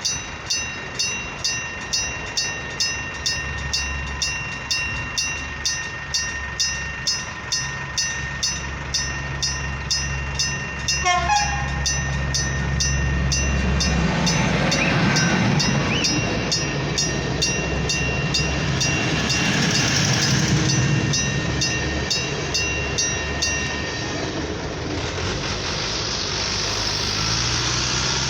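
İzmir–Denizli passenger train departing the station and passing close by, its engine humming low under a regular ticking about twice a second. The train noise swells from about halfway through and eases off near the end.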